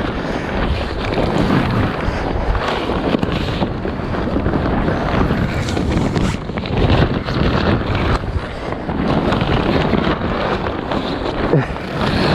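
Strong wind buffeting the microphone on a sailboat, a loud, rough rush with irregular knocks and flutters through it.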